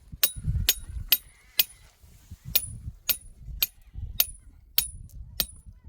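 Hammer blows on metal, about two a second with a short pause about two seconds in. Each blow gives a sharp, high ring, typical of a hammer driving a metal tent stake.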